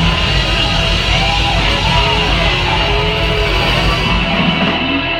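Loud live rock band with distorted electric guitar. About four seconds in, the high cymbal hiss drops out, leaving the lower guitar and band sound.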